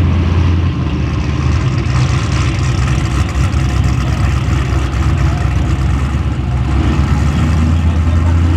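LS V8 engine idling loudly and steadily.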